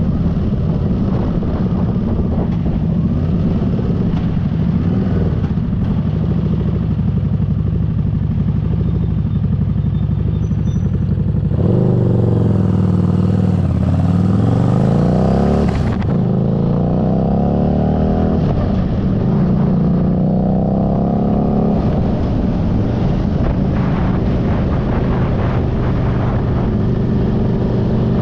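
Motorcycle engine running while riding. Its pitch sweeps up and down with throttle and gear changes, loudest for a few seconds about twelve seconds in.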